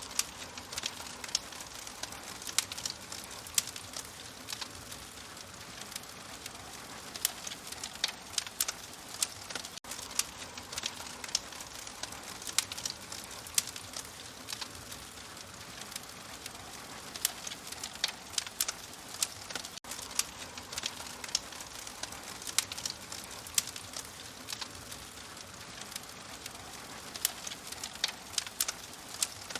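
Fire crackling in a fireplace: a steady soft hiss with frequent, irregular sharp pops and snaps.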